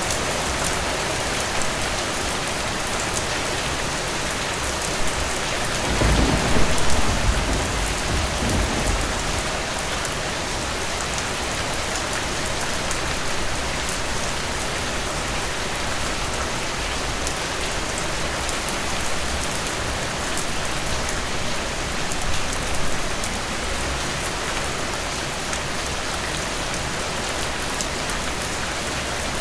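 Heavy rain falling steadily, with a roll of thunder about six seconds in that rumbles for a few seconds.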